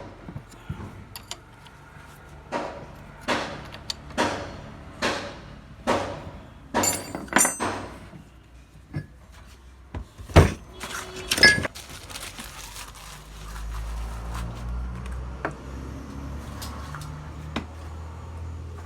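Metal parts being handled in a workshop: a series of short scraping or tapping strokes about one a second, then two sharp metallic clanks that ring briefly. A low steady hum follows through the rest.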